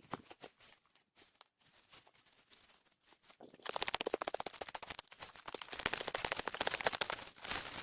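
A few faint knocks, then, about halfway in, a fast dense rattling scrape starts: a hand tool scraping stony earth down to a flat grade.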